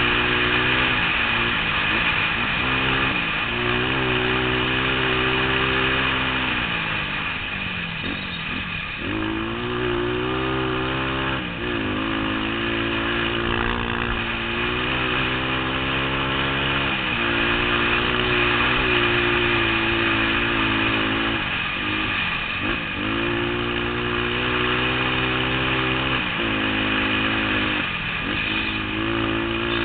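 Trail motorcycle engine running under load throughout. Its pitch holds for a few seconds at a time, then dips and climbs again, several times over.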